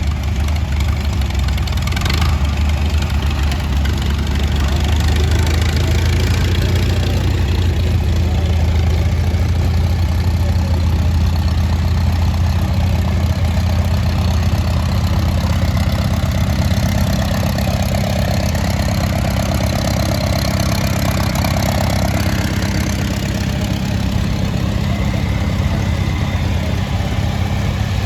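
Tractor engine running steadily at idle, a low even hum, with a brief sharp click about two seconds in.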